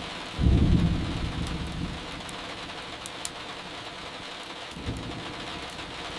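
Steady rain with a low rumble of thunder starting about half a second in and a weaker rumble near the end. A few faint crackles from a wood fire.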